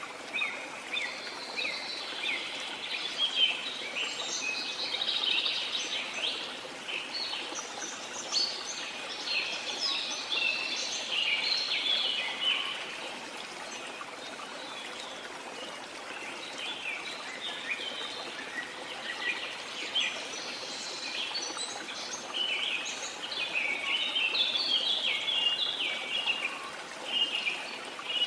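Many birds chirping and calling over a steady rush of running water, with a lull in the birdsong about halfway through.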